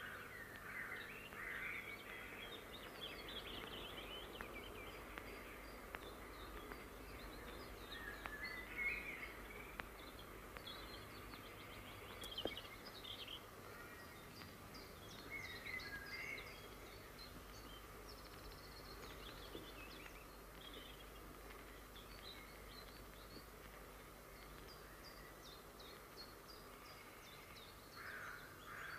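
Faint birdsong: scattered chirps and short calls from small birds, over a steady low background hiss.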